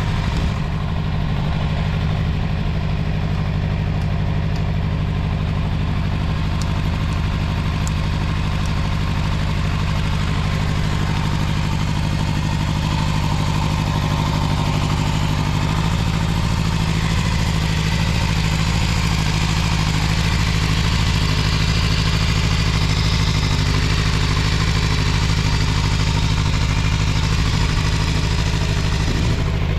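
Suzuki Bandit 250's four-cylinder engine idling steadily, running smoothly with no abnormal noises.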